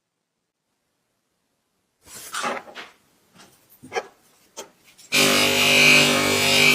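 Hand scraping and rubbing on the sharpener's parts, with a few sharp knocks, then about five seconds in a power tool cuts in at full speed with a steady hum and hiss.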